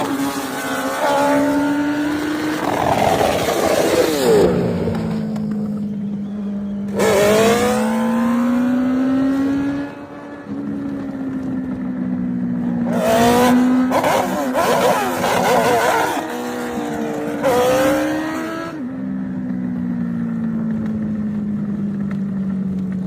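Motorcycle engine running steadily and revved up and down several times.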